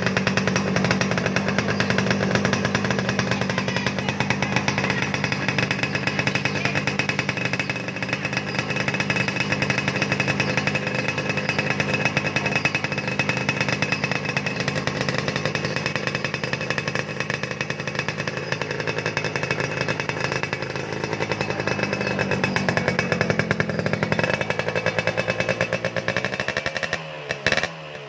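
Yamaha F1ZR's single-cylinder two-stroke engine running through an aftermarket racing exhaust, a loud steady buzz. Near the end the revs drop and the note turns choppy.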